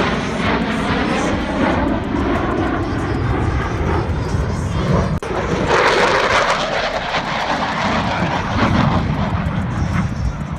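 Airplane engine noise as an aircraft flies past, getting louder and brighter around the middle, then easing off.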